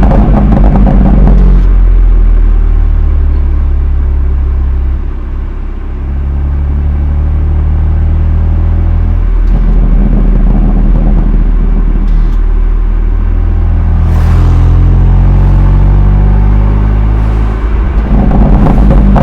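BMW M2 Competition's twin-turbo 3.0-litre inline-six exhaust, stock muffler, running under load. Its note climbs in pitch in stretches, broken briefly several times as if by gear changes, with a short harsher burst about two-thirds of the way in. The sound is slightly distorted from an overloaded microphone.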